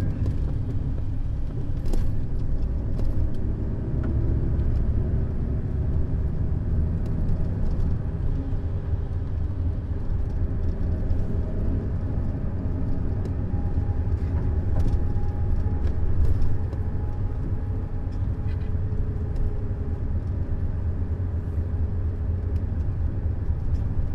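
Neoplan Skyliner N 1122/3C double-decker coach under way: a steady low engine and road rumble, with scattered light rattles and clicks.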